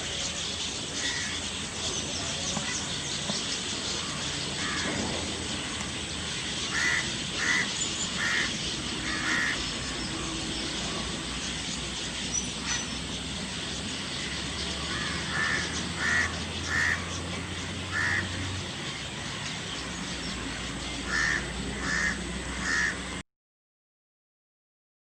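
Birds calling loudly in short series of three or four harsh notes, several times over, above a steady hiss of background sound. The sound cuts off suddenly near the end.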